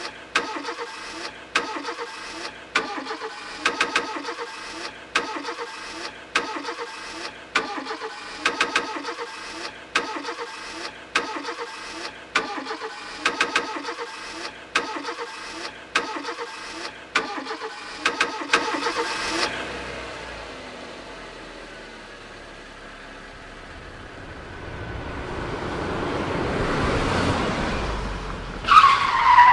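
A car engine sound chopped and repeated in an even rhythm of about two hits a second. After about 19 s it gives way to a smoother engine noise that swells, and near the end a squeal falls in pitch.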